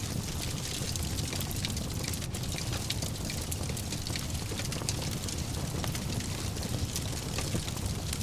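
Wood fire burning in a fireplace, hissing steadily with frequent small crackles and pops over a low rumble.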